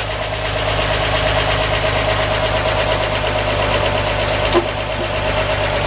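1946 Chevrolet cab-over truck's 235 cubic-inch inline six idling steadily, running on all six cylinders after a cylinder-head rebuild that freed two stuck exhaust valves. A brief sharp click about four and a half seconds in.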